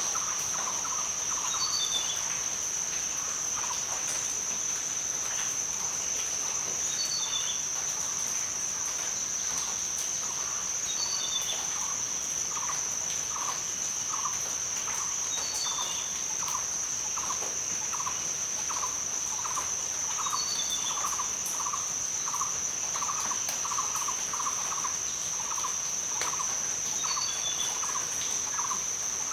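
Rainforest ambience: a steady, high insect drone, with short, low calls repeating about twice a second throughout, and a brief two-note bird chirp about every four to five seconds.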